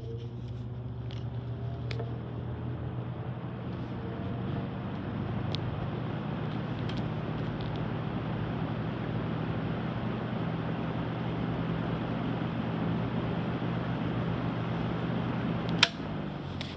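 12-inch Galaxy box fan starting up on low speed: the motor hum rises in pitch over the first few seconds as the blade comes up to speed, then settles into a steady rush of air over a low hum. A single sharp click near the end.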